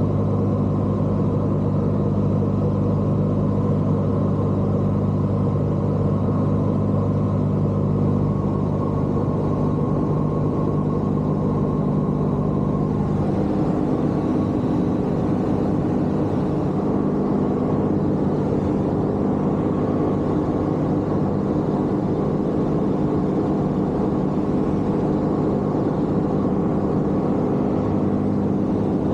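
A steady low vehicle drone of engine and motion noise, whose pitch pattern shifts about 13 seconds in.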